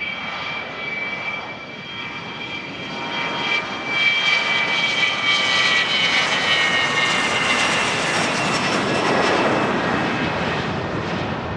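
Business jet's turbofan engines passing close by: a high whine that drops slightly in pitch as it goes past, over a rushing jet noise that swells about four seconds in and stays loud.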